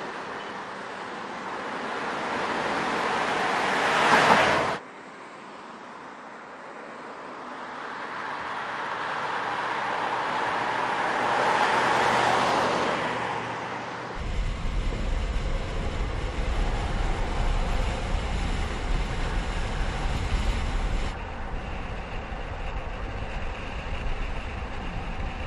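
Car noise at speed. It rises twice to a peak, the first time cutting off abruptly, then gives way about fourteen seconds in to a steady low rumble of engine and road noise.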